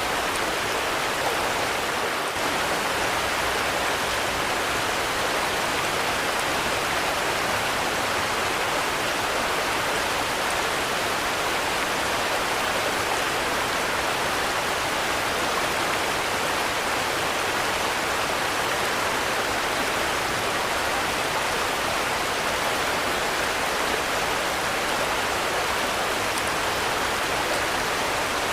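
Steady, even rain noise with no distinct drops or thunder.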